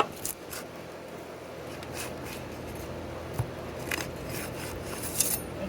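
Asphalt roof shingle being pried up from its seal strip: scattered scrapes, crackles and clicks as the tab is worked loose, tearing and delaminating rather than releasing cleanly.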